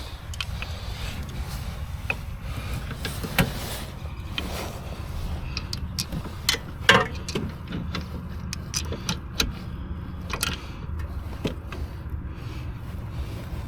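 Steady low vehicle rumble with scattered clicks and knocks, the sharpest ones about three and seven seconds in.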